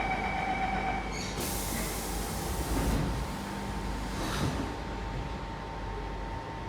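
Siemens C651 train: a steady electronic tone stops about a second in, then a burst of air hiss lasts about a second and a half, with a shorter hiss a little later, over the train's steady hum.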